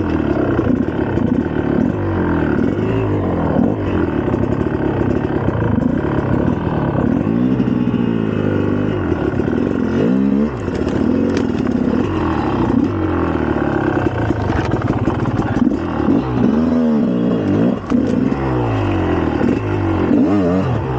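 Single-cylinder two-stroke engine of a 2004 GasGas EC300 enduro dirt bike being ridden, revving up and down over and over as the throttle is opened and rolled off, with some clatter.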